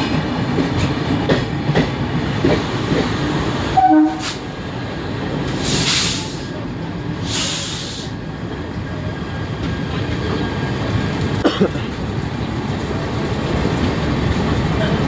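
Train running on the rails: a steady low rumble with scattered wheel clicks. A brief pitched sound comes about four seconds in, followed by two hissing bursts a second or so apart.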